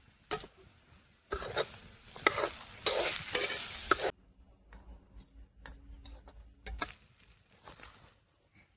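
A spoon stirring and scraping sabudana khichdi (soaked sago pearls with potatoes and chillies) frying in a pan, with sizzling. It starts about a second in, is loud for about three seconds, then cuts off suddenly.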